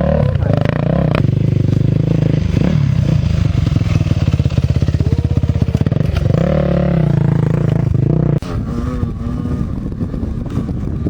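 Motorcycle engine running loud and close, its pitch dipping and coming back up briefly about six seconds in. About eight seconds in the loud engine note cuts off abruptly, leaving a quieter engine sound.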